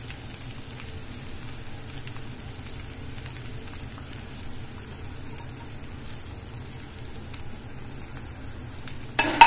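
Grated coconut and cashews frying in ghee in a pan: a steady soft sizzle. A sharp knock near the end.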